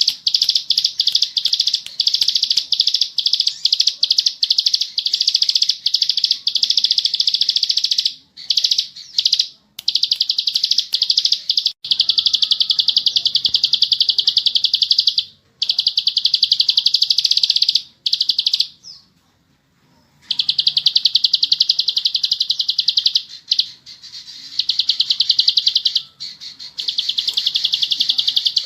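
Ciblek sawah, a small prinia, singing in long, rapid, high-pitched trills that run almost without break. It pauses briefly a few times, the longest pause about two-thirds of the way in.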